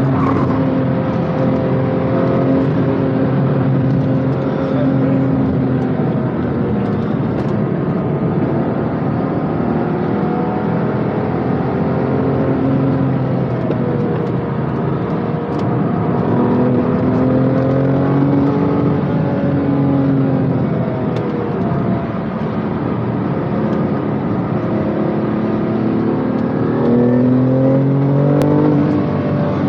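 BMW M2 Competition's twin-turbo straight-six engine under hard driving, heard from inside the car, its pitch climbing and falling repeatedly as it revs up through the gears and drops back for corners.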